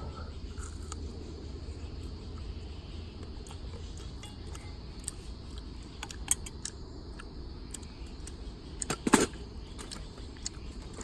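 Scattered small clicks and knocks of objects being handled, the loudest a brief clatter about nine seconds in, over a steady low rumble.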